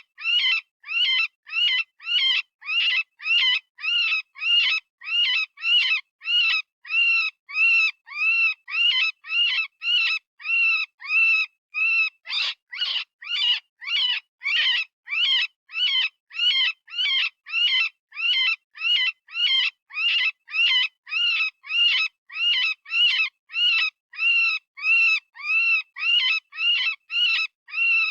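Synthesized rabbit distress call: short, high-pitched screams repeated about twice a second with short gaps. Each scream rises and falls in pitch. It is the fear-or-pain scream of a rabbit, the kind used as a predator-hunting call.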